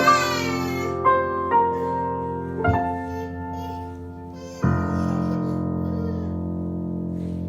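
Piano music: a few slow, sustained notes, then a final chord struck about four and a half seconds in and held as it slowly fades.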